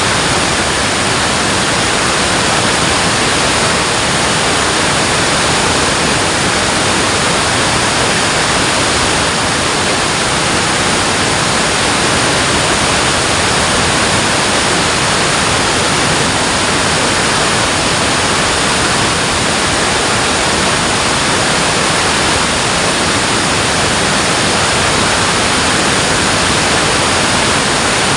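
Water pouring through a dam, a loud steady rush with no change in level or pitch.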